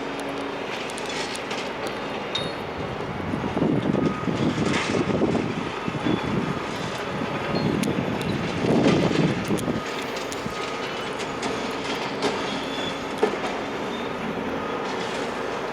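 Heavy demolition machinery at work: an engine running under a continuous clatter of metal and debris, with scraping and knocking. It swells in two louder spells, about four and about nine seconds in.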